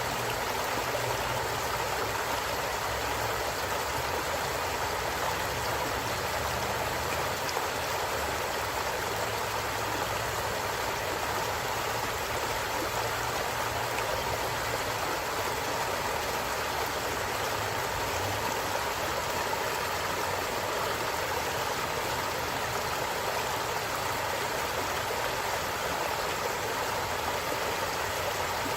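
A stream of running water, rushing steadily and evenly.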